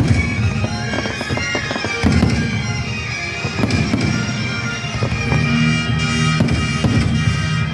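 Fireworks going off in a series of sharp bangs and crackles, about half a dozen loud reports, over music with long held tones playing at the same time.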